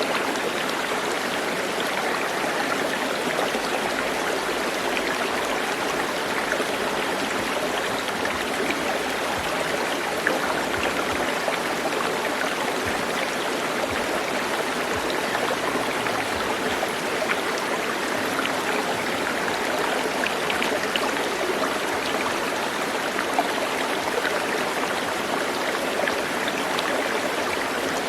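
Steady rush of flowing water, like a forest stream, unchanging throughout.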